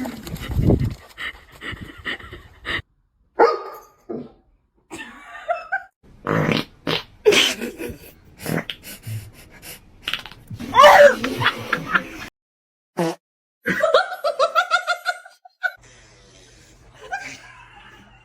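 A run of short animal calls and noises, each cut off abruptly and followed by the next.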